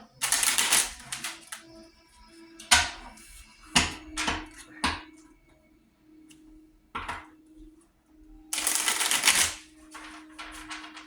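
Playing cards being handled and put down on a table: a string of separate slaps and rustles, with a longer rustle of about a second near the end.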